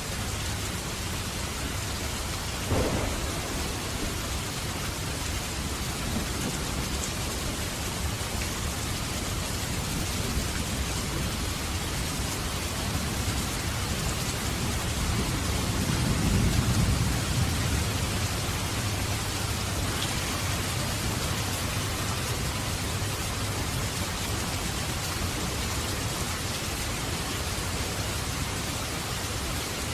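Steady rain, with a low rumble of thunder swelling and fading about halfway through, and a single short knock about three seconds in.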